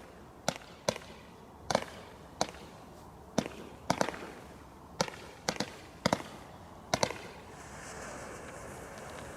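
A giant bonfire cracking with loud, sharp bangs at uneven intervals, about a dozen in seven seconds and some in quick pairs. A steady rushing hiss takes over near the end.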